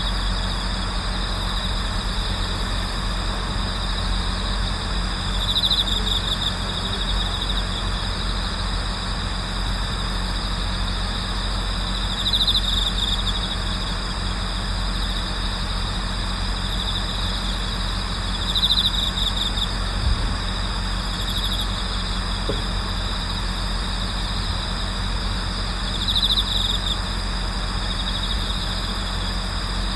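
Autumn crickets, among them bell crickets, singing steadily in a night-time chorus of high, continuous trilling. A louder, nearer trill rises out of the chorus four times, about every six or seven seconds, each lasting about a second. A steady low hum runs underneath.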